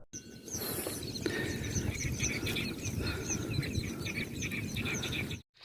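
Many small birds chirping busily, lots of short high calls overlapping, over a steady low rushing noise. The sound cuts in abruptly and cuts off suddenly near the end.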